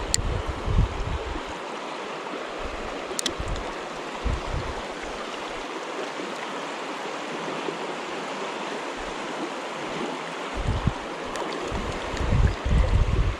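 Steady rush of a flowing river, with a few low rumbling bumps on the microphone, the loudest near the end.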